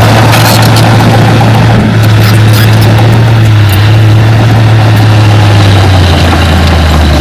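Heavy earthmoving machine's diesel engine running steadily under a loud low hum, which drops lower in pitch about six seconds in as the engine slows. Scattered light clicks and knocks sound over it.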